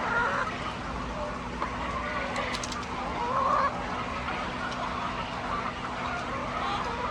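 A flock of laying hens clucking and calling over one another, with a steady low hum underneath.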